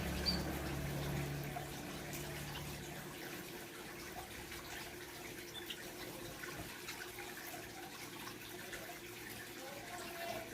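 Steady trickle of running water, with a couple of faint, brief bird chirps. A low hum fades out about three seconds in.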